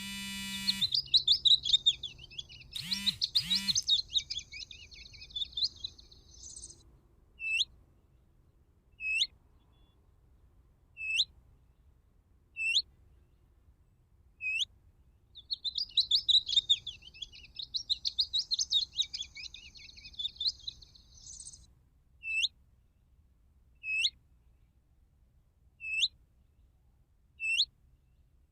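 Recorded song of the shuhaim bird played as a lure through an electronic bird caller. A long twittering song phrase of several seconds plays twice, the same both times. Between the phrases, single sharp call notes sweep down and repeat every couple of seconds.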